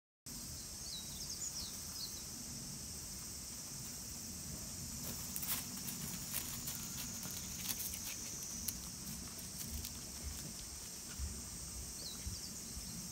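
Rural summer ambience: a steady high-pitched drone of insects, with a few short bird chirps near the start and again near the end, over a low rumble. A few faint clicks come in the middle.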